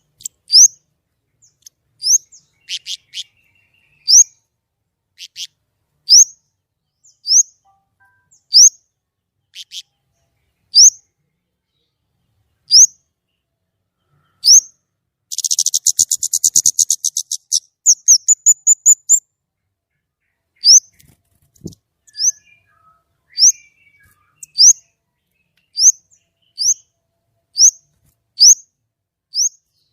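A kemade songbird singing loud and clear: short, sharp rising whistles repeated about once a second. About halfway through it breaks into a fast rattling trill, followed by a quick run of very high notes, then goes back to the single whistles.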